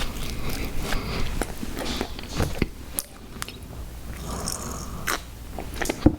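Close-miked chewing and biting of sour gummy worm cereal: irregular wet mouth clicks and smacks with some crunching, in quick succession.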